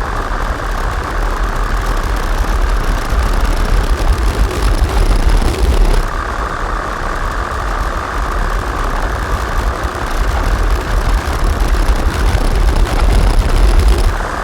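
Distorted modular-synthesizer drone: a dense, rumbling noise texture heavy in the low end, pushed through fuzz and filter pedals. Its tone shifts about six seconds in, when a brighter upper band comes forward.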